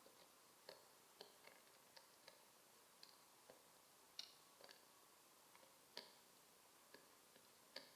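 Faint, irregular clicks and taps, roughly two a second, over near silence.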